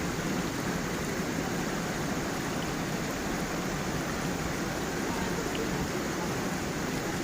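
Steady rush of a small forest stream and waterfall, water flowing and splashing over stones, a continuous even noise weighted toward the low end.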